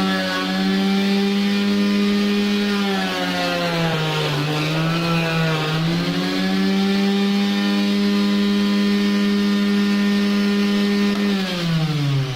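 Mixer grinder's universal motor spinning a homemade disc sander, a steady high whine that dips in pitch for about two seconds around the middle, then winds down with falling pitch near the end as it is switched off.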